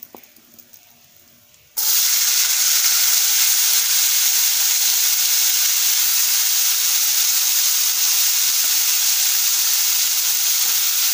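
Chopped water lily stems frying in hot oil in a pan: a loud, steady sizzle that starts suddenly about two seconds in.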